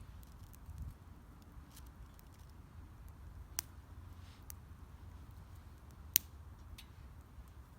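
Wood fire burning in a small steel fire pit, giving a few sharp crackles and pops, one much louder snap about six seconds in, over a low steady rumble.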